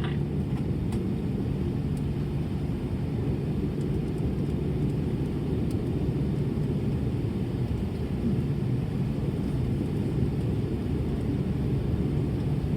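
Steady low rumble inside an Airbus A320 passenger cabin with its engines running before takeoff, with a steady hum under it.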